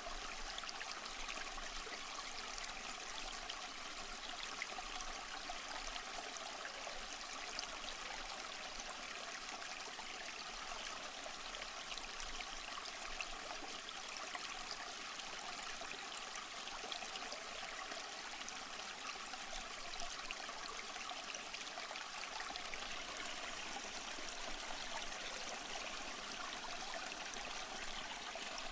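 A small stream flowing and trickling over rocks, a steady even rush of water with fine splashing detail and no breaks.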